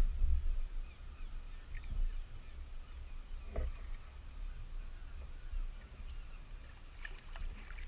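Wind buffeting the microphone and water slapping against a kayak's hull, with a couple of short knocks about halfway through and near the end.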